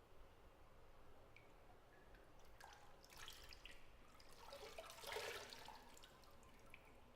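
Faint bathwater sounds: scattered single drips, with two brief splashy stirrings of the water about three and about five seconds in, the second the louder.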